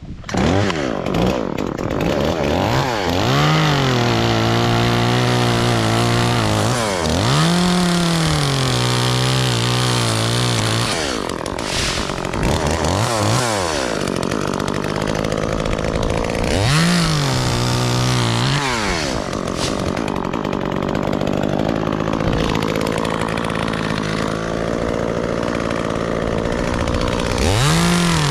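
Gas chainsaw running hard and cutting oak, revving up and then dropping in pitch as it loads in the cut, about five times over.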